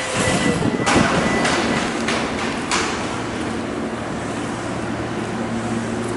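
Hankyu electric train pulling slowly into an underground platform, its running gear and motors making a steady low hum. Several sharp knocks come in the first few seconds.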